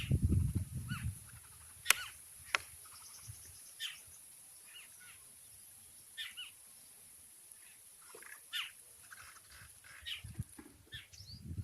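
Small birds chirping: many short, quick calls scattered through, with two sharp clicks about two seconds in and a low rumble at the start and again near the end.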